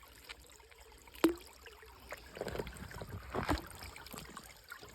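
Faint running water, trickling and lapping gently, with one sharp click about a second in and a few short, irregular splashy sounds between two and four seconds in.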